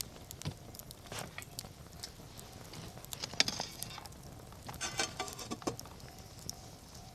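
Wood campfire crackling, with irregular pops throughout, one sharp loud snap about three and a half seconds in and a quick run of crackles around five seconds.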